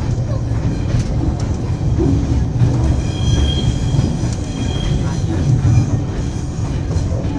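Moving passenger train heard from inside the carriage: a steady low rumble with scattered wheel clatter, and a high steady wheel squeal from about three to five seconds in.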